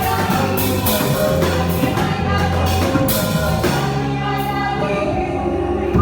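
Live gospel band music with a drum kit and singing. The drum hits thin out about halfway through, leaving held chords.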